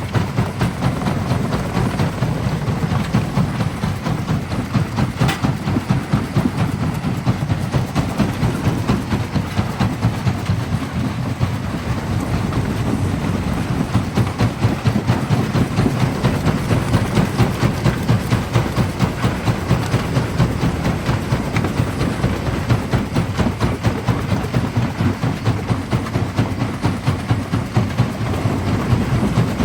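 Primary jaw crusher running and crushing rock: a steady, rapid rhythmic pounding of several beats a second, with one sharp crack about five seconds in.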